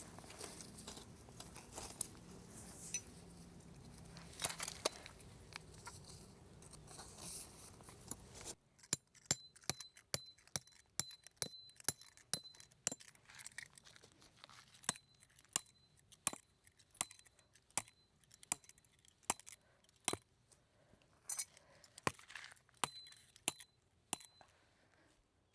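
A series of light, sharp clinks and clicks of small hard objects being handled, sparse over a background hiss at first, then closer and more frequent after a cut about eight seconds in.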